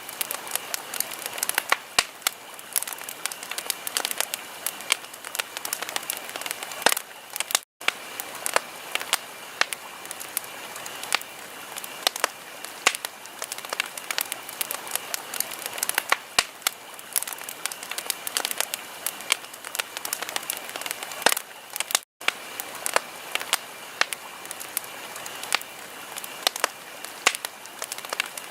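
Wood fire crackling in a fireplace: dense, irregular sharp pops and snaps over a steady hiss. The sound cuts out for an instant twice.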